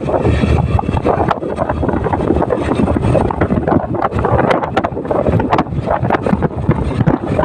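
Wind buffeting the microphone on a moving motorcycle, with the motorcycle's engine running underneath.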